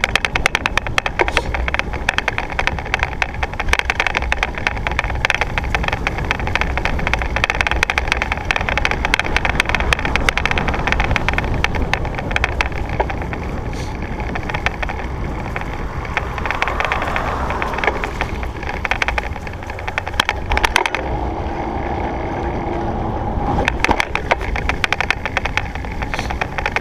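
Surly Krampus mountain bike being ridden, its tyre rumble mixed with wind on the microphone and many small clicks and rattles.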